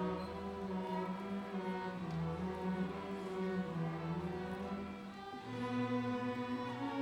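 Bowed string music, violin and cello playing slow sustained notes over a bass line, with the chord changing about every second or two.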